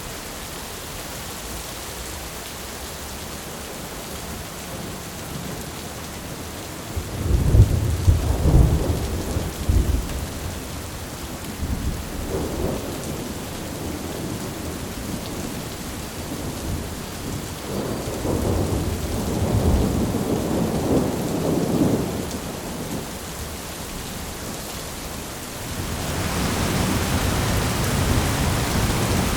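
Thunderstorm: steady rain with rolling thunder. A loud rumble comes about seven seconds in and another, longer one about eighteen seconds in. Near the end the rain suddenly gets heavier.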